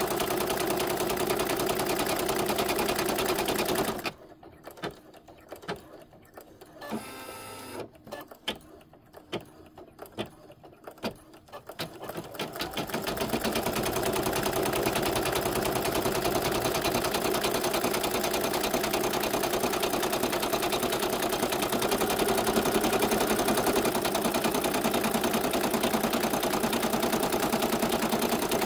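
Embroidery machine stitching steadily. It stops about four seconds in, leaving a quieter stretch with a few scattered clicks, then starts up again after about eight seconds and keeps stitching.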